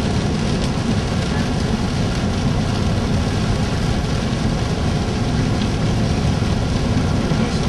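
Steady road and engine noise inside a car driving slowly.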